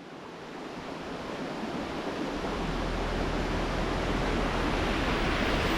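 Steady rushing noise that fades in from silence and grows louder, with a low hum joining about two seconds in.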